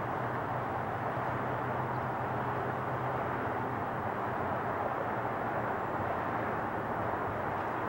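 Jet airliner engine noise, a steady even rush with a low hum underneath.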